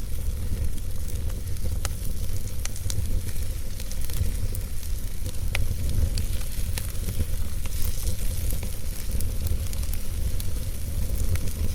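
Wood fire burning in a fireplace, crackling and popping with many small sharp snaps over a steady low rumble of the flames.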